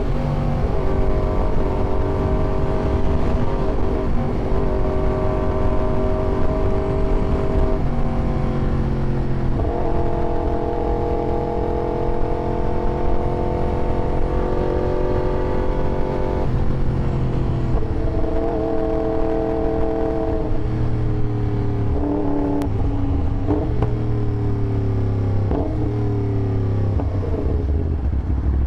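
Yamaha R1 sportbike's inline-four engine running under way, holding a steady pitch for stretches. The pitch steps up about eight seconds in, then drops in stages and slides lower near the end, over a low rumble.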